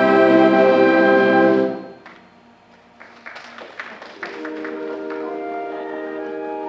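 A symphonic wind band holds a loud sustained chord that cuts off about two seconds in and rings away in the hall. After a short pause with a few faint clicks, softer held chords come back in about four seconds in.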